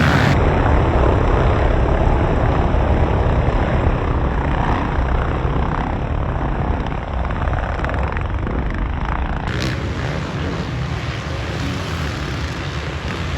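Dirt bike engines running on a motocross track during practice, a dense continuous engine noise. The sound changes abruptly twice, about half a second in and about ten seconds in.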